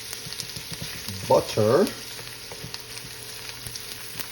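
Sizzling in a frying pan as onions, carrots and sausage fry in oil with freshly added butter, stirred with small scrapes and clicks. A brief vocal sound about a second and a half in.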